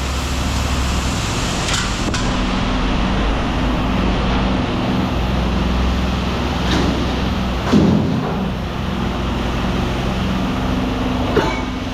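A vehicle engine idling steadily, with a few scattered knocks of scrap being handled; the loudest knock comes about eight seconds in.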